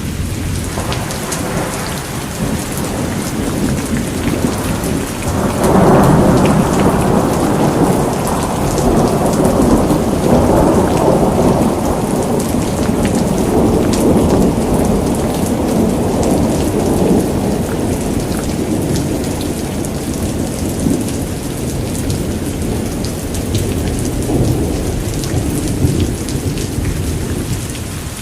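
Steady rain pattering, with a long roll of thunder that swells suddenly about five seconds in and slowly rumbles away over the next twenty seconds.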